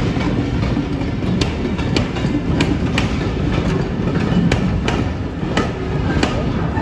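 A passing train's coaches and flat wagon rolling by, the wheels clicking over the rail joints in an irregular clickety-clack over a steady low rumble.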